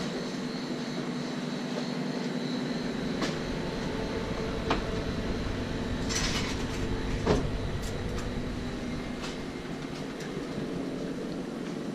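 Inside a moving train carriage: a steady running hum with scattered clicks and rattles, a short hiss about six seconds in and a single knock a second later.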